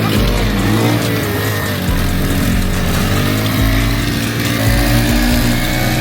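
A small engine revving up and down, with music playing under it.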